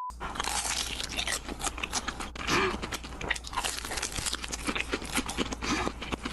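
Close-miked mukbang eating: a run of crisp, irregular crunching bites and chewing.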